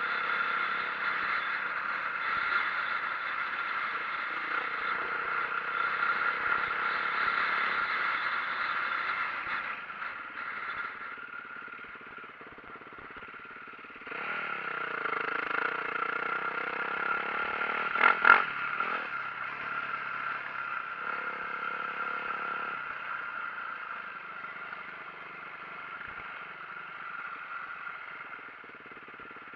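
2004 Yamaha YZ450F dirt bike's four-stroke single-cylinder engine running under way. It eases off about ten seconds in, then revs up again with rising pitch around fourteen seconds. There are two sharp knocks about eighteen seconds in.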